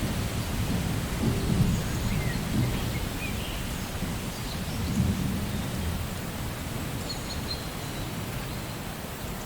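Steady rain with low rolling thunder, the rumble swelling about a second and a half in and again about five seconds in.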